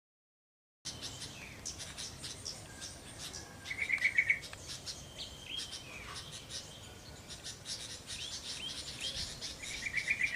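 Yellow-vented bulbul (trucuk) singing in the wild, with short bubbling bursts of quick repeated notes about four seconds in and again near the end, among thin high chirps from other small birds. The sound comes in about a second in.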